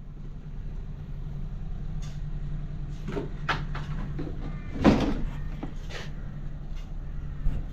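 An engine running steadily with a low hum. Several sharp knocks and clanks come over it between about three and six seconds in, the loudest near five seconds, and one more just before the end.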